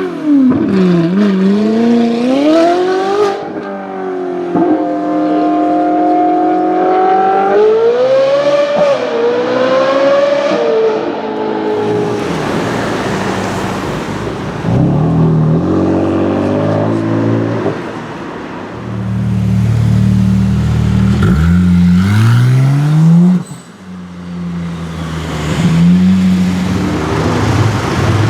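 Sports car engines revving and accelerating hard, the pitch climbing and then dropping back several times as they shift through gears.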